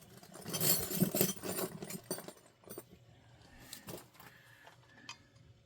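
Metal wrench sockets clinking and rattling as they are sorted and tried for size, a busy run of clicks in the first two seconds, then a few scattered taps.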